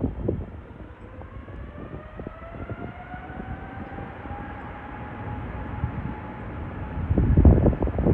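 Jet airliner's engines, a whine slowly rising in pitch over a low rumble. Wind buffets the microphone near the end.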